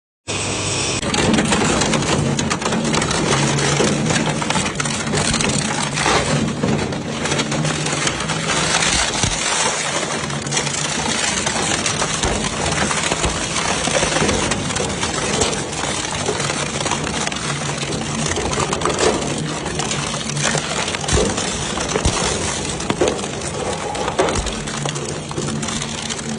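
A scrap-metal crushing machine at work on motorcycles and metal: a steady engine hum under continual crunching and clattering of metal, full of small sharp knocks.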